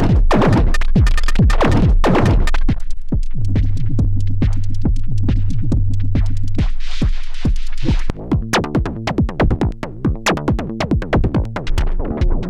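Erica Synths Perkons HD-01 four-voice drum synthesizer playing a pattern: a busy electronic drum beat with a low held tone partway through. About eight seconds in, the beat turns sparser and lighter.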